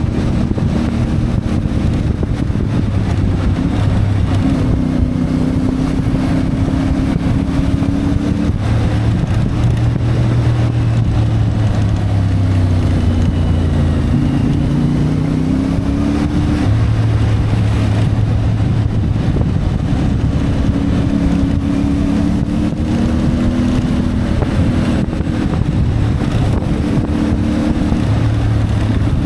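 CFMoto 450MT motorcycle's parallel-twin engine running under way, its revs holding steady, then dipping and rising again about halfway through, with wind buffeting the microphone.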